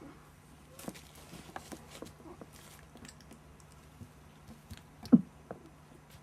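Month-old puppies playing: scattered small clicks, scuffles and patter, with one short louder sound about five seconds in.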